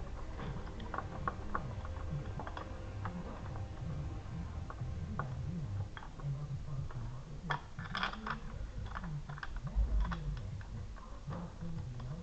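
Irregular light clicks and taps, as of hand tools on metal, with a denser run of clicks about eight seconds in and a dull thump near ten seconds.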